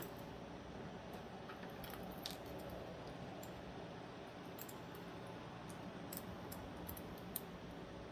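Faint, scattered small metal clicks and light scrapes of folding-knife parts being handled and fitted by hand, a click every second or so.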